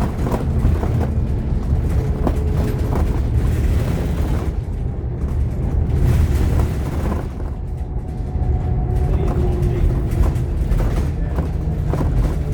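Scania K230UB OmniLink bus heard from inside the saloon while under way: a deep, steady engine and road rumble with a faint engine note that shifts pitch partway through, and scattered rattles.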